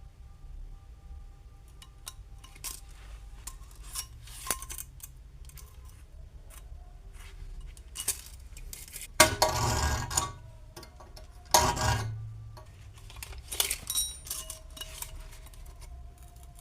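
Metal pieces being handled, with scattered clinks and knocks. Two louder metallic clanks come about nine and eleven and a half seconds in, each ringing briefly.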